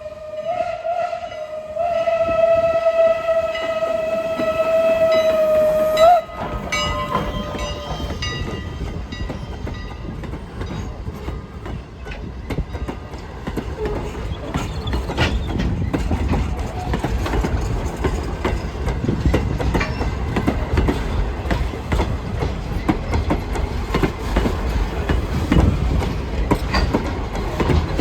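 Steam whistle of Strasburg Rail Road locomotive No. 89 blowing a long blast, then a shorter one about six seconds in. The train then rolls past, with a rumble that builds and wheels clicking over the rail joints.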